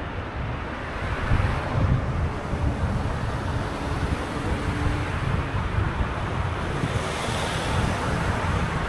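Wind buffeting the microphone while riding a bike: a steady, gusty rumble.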